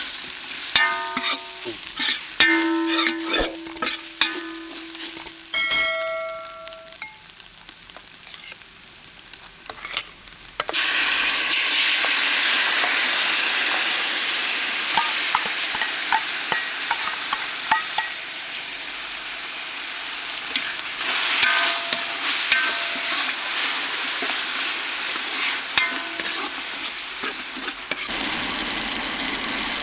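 Metal utensils clinking against a pot or pan with short ringing tones for the first several seconds. About ten seconds in, a loud sizzle starts suddenly as food goes into hot oil, and it carries on steadily with the small clicks and scrapes of stirring.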